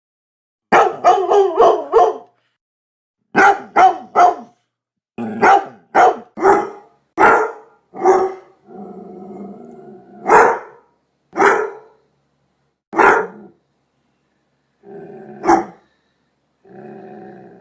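A large dog barking fiercely, in quick runs of three to five barks at first, then single barks with a low, drawn-out growl between them in the second half.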